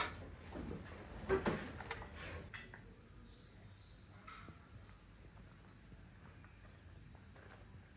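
Faint birds chirping outdoors: a few short, high calls sliding in pitch. They come in after the tail of background music fades out in the first two and a half seconds.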